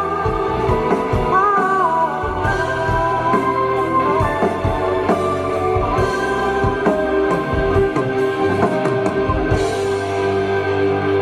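Live band playing a pop-rock song with a male singer's voice, drums and steady held chords, heard from the audience.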